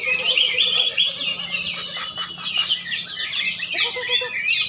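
Many songbirds singing at once, a dense chorus of overlapping chirps and fast trills.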